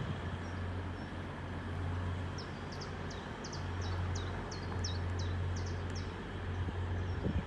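A small songbird singing a quick run of about a dozen short, high chirps over a steady low rumble.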